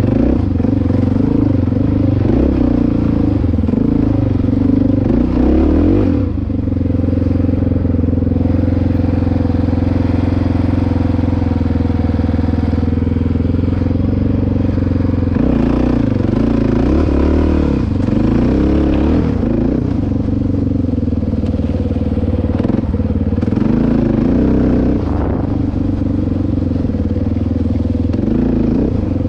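Dirt bike engine running under throttle on a trail ride. It holds a steady speed through the middle and surges and eases with the throttle before and after.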